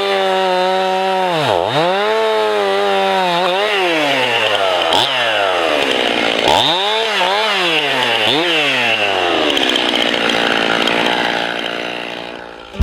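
Chainsaw engine at high revs, its pitch dropping sharply and recovering several times, as happens when the saw is bogged by wood in a cut. After about ten seconds the engine's tone gives way to a noisier rasp that fades near the end.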